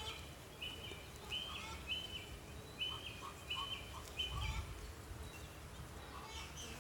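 A bird calling: a steady series of about seven short, high, even notes, roughly one every 0.7 seconds, stopping a little over four seconds in.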